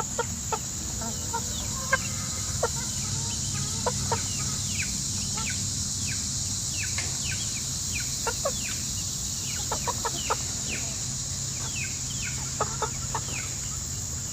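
Three-month-old Asil chickens clucking and peeping in short, sharply falling calls, scattered irregularly throughout, over a steady high hiss and a low hum.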